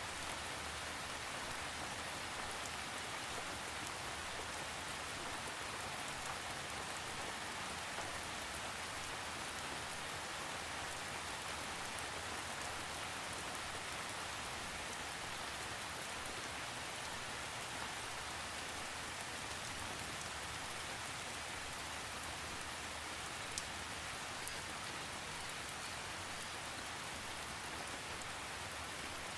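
Steady rain falling on a surface, an even patter that does not change, with a few individual drops standing out near the end.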